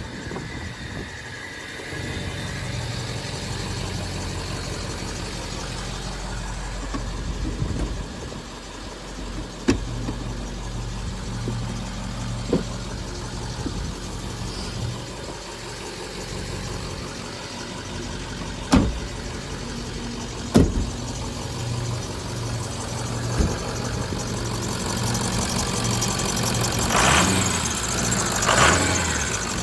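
Ford F-450 truck's engine idling steadily, with a few sharp clicks or knocks and a louder stretch of noise near the end.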